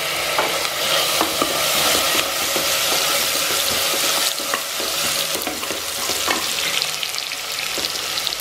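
Onions and whole spices sizzling in hot oil in a metal pot, with a steady hiss and scattered light clicks and scrapes from a wooden spatula stirring against the pot.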